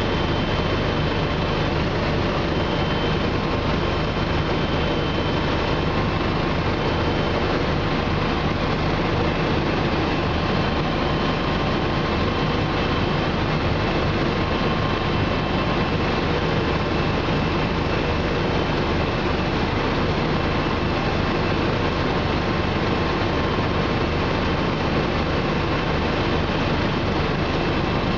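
Bell 429 helicopter in cruising flight, heard from inside the cabin: a steady, unbroken drone from its twin turboshaft engines and rotors, with a faint steady whine above it.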